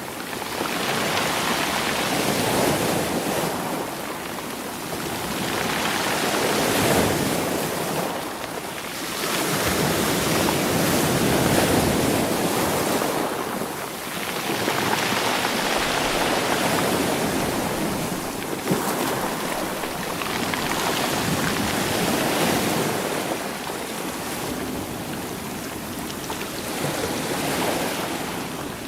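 Sea waves washing over rocks and rolling stones on the shore, a dense rushing noise that surges and eases every few seconds as each wave comes in and draws back.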